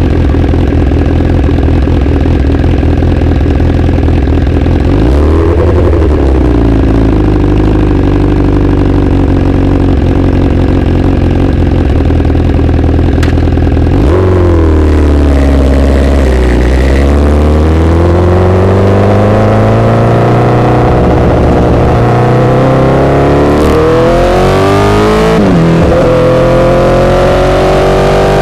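Honda CBR1000RR inline-four running through an SC-Project exhaust while ridden. Its pitch jumps up about halfway through and sinks, then climbs steadily for several seconds. Near the end it drops sharply and climbs again, like an upshift.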